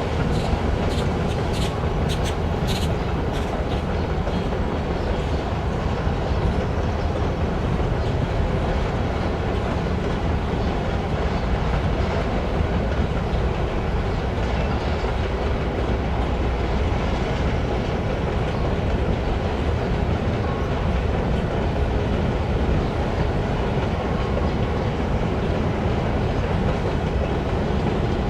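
Freight train rolling past, a steady rumble of wheels on rail with clickety-clack over the rail joints. A run of sharp clicks comes in the first few seconds.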